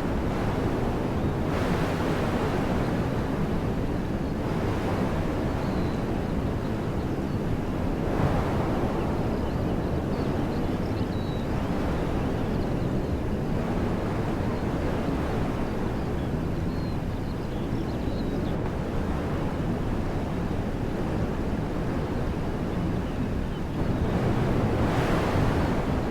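Wind blowing through woodland trees as a steady rushing that swells in gusts a few times, strongest near the end, with a low rumble of wind buffeting the microphone.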